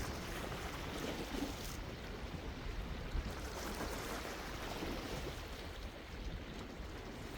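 Sea water washing and swirling against the shore, a steady rush that swells a little about a second in and again around four to five seconds in.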